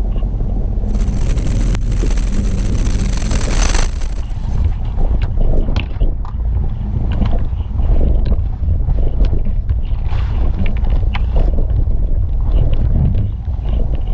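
Jeep WJ Grand Cherokee creeping down a steep, loose gravel descent on the brakes, with a steady low rumble. Gravel and rocks crackle under the tyres in scattered clicks, over wind noise on the microphone.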